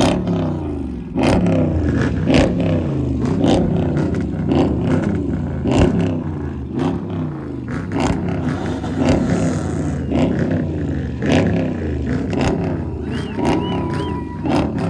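Vehicle engines revving hard over and over, the pitch rising and falling about once a second, with sharp pops throughout. Near the end a brief steady tone sounds for under a second.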